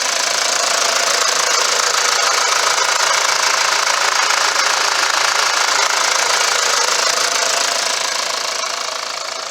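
Mitsubishi Fuso FE145's 4.9-litre turbo diesel idling with a steady diesel clatter, growing quieter near the end.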